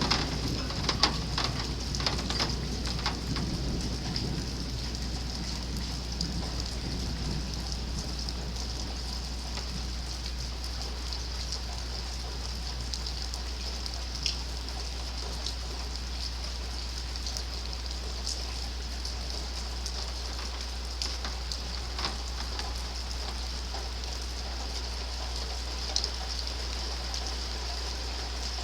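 Steady rain falling during a thunderstorm, with scattered drops ticking sharply. A low rumble fades away over the first few seconds.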